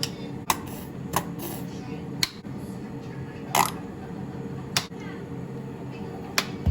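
Sharp clicks or taps, about seven at uneven intervals a second or so apart, over a steady low hum.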